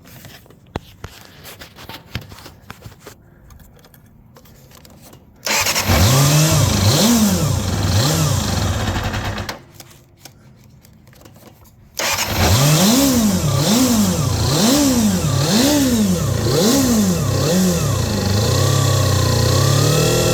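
Kawasaki ZXR250 inline-four engine cold-started. After a few seconds of small clicks it fires about five seconds in, is blipped up and down a few times, and dies near ten seconds. It restarts about two seconds later, is revved up and down repeatedly, then holds a steady fast idle near the end. It will not settle at idle, which the owner puts down to the carburettors having no idle circuit.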